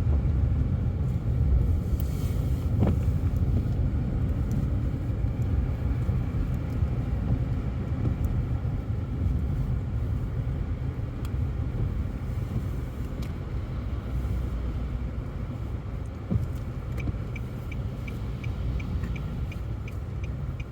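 Steady low rumble of a car driving through heavy snow, heard from inside the cabin. Near the end a fast, regular light ticking starts up.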